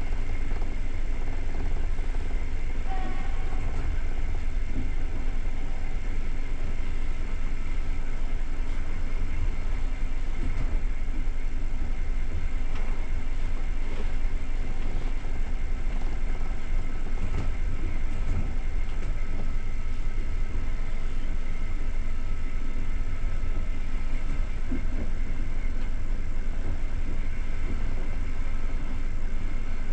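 Passenger train coach running along the line, heard from inside the carriage: a steady low rumble of wheels on track with a faint steady whine above it.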